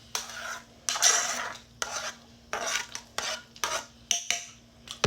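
A metal utensil stirring and scraping in a bowl of Mexican corn, in a string of irregular short strokes and clinks, over a faint steady hum.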